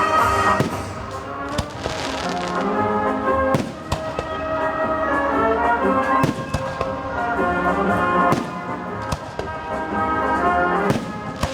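Fireworks going off: several sharp bangs at uneven intervals, about one every second or two, over music with brass instruments playing.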